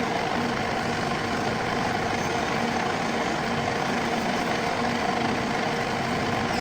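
Metal lathe running, a steady machine hum over even noise.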